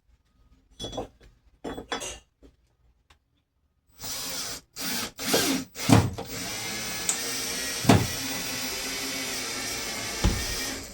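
Power drill running: two short bursts in the first couple of seconds, then from about four seconds in it runs steadily, with a few sharp knocks along the way.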